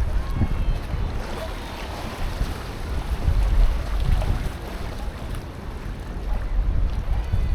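Wind buffeting the microphone: an uneven low rumble that swells and falls, loudest about three and a half seconds in.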